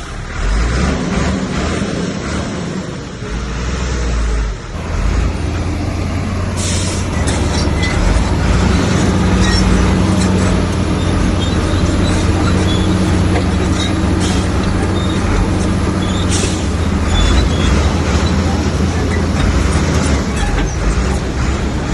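Heavy diesel earthmoving machine running hard, its deep engine note steadying and growing louder about five seconds in, with scattered metallic clicks and squeaks over it.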